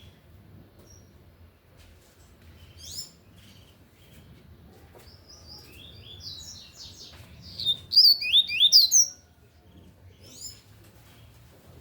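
Double-collared seedeater (coleiro) singing a phrase of the tui-tui song style. There is a single high note about three seconds in, then a run of quick high notes sliding up and down, loudest near the eight-second mark, before it stops about nine seconds in.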